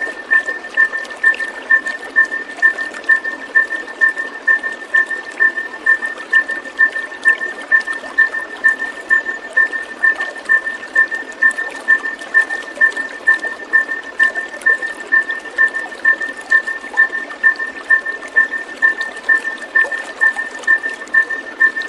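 Water trickling and pouring steadily, mixed with a short high pip that repeats very regularly about twice a second; the pip is the loudest thing. This is a looped calming soundtrack played to white-rumped shamas.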